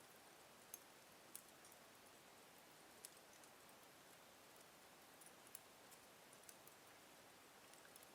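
Wood fire burning in a fireplace, crackling faintly: sparse, irregular sharp pops and ticks over a soft, steady hiss.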